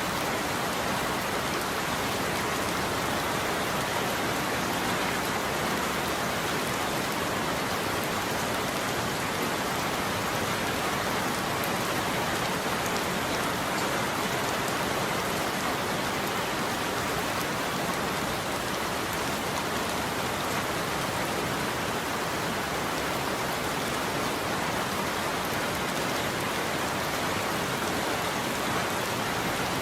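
Steady heavy rain falling on a roof, an even hiss with no thunder.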